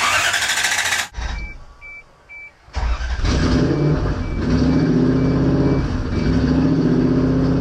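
A Lexus 1UZ-FE 4.0-litre all-aluminium V8 is cranked and fires on its first start. Its first second is a loud rush of noise. After a pause with three short electronic beeps, the engine catches about three seconds in, its revs waver, and it settles into a steady idle.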